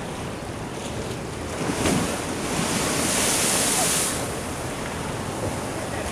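Ocean surf washing against a sea wall, with wind rumbling on the microphone. A wave surges up with a louder hiss about two and a half seconds in, then falls back after about four seconds.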